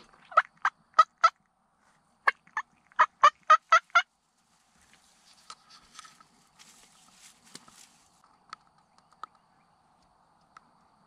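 Turkey yelping at close range: a run of four loud, short notes, then after a brief pause a quicker run of about eight more. Only a few faint clicks follow.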